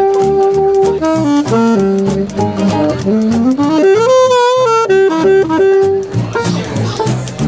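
A live band playing an instrumental break, a single lead instrument carrying the melody over the band: a long held note, then quick stepping runs, a slow climb to a wavering high note about four seconds in, and more short notes after.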